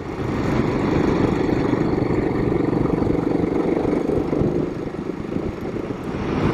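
Royal Enfield Himalayan 452's single-cylinder engine running steadily at low rpm while riding, heard from the bike. The sound builds over the first second and then holds even.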